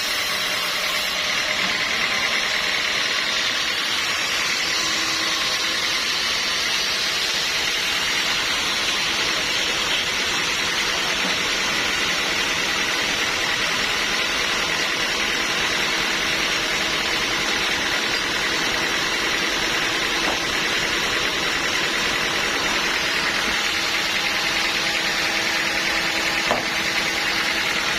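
Sawmill machinery running steadily, an even mechanical noise with faint steady tones and no change in pace.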